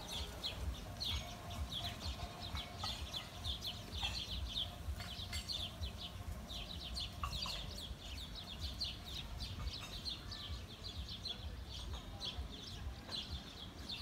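Many small birds chirping over and over in short, high notes, over a steady low rumble.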